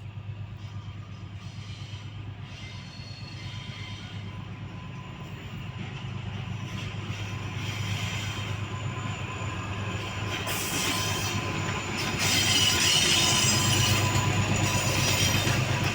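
Freight train passing on the rails, its low rumble growing steadily louder as it comes closer. About ten seconds in, a high-pitched wheel screech joins it, and the whole sound is loudest near the end.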